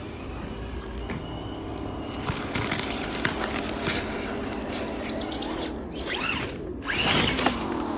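Scale RC crawler truck driving over rough ground: its small electric motor and gears whine steadily under scraping and crunching from the tyres, with the motor's pitch changing briefly near the end.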